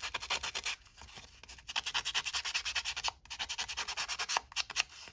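Sanding disc rubbed quickly back and forth over the edges of a cardstock tag, scratching and scuffing the paper to give it an aged, worn look. The strokes come fast and even, about nine a second, in runs with a short pause about a second in and another brief break past the middle.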